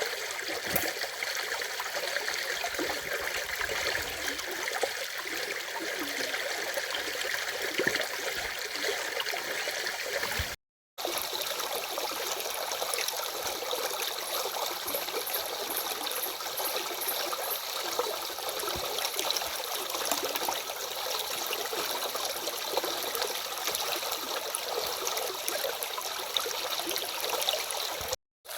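A stream running and trickling in a steady, bright rush with little low rumble. It is broken twice by a split-second dropout to silence, about ten seconds in and near the end.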